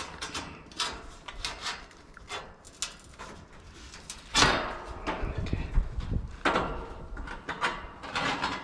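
Clicks, knocks and scrapes from hands working on an air-conditioning unit, with a louder rough scraping noise lasting about two seconds starting around four and a half seconds in.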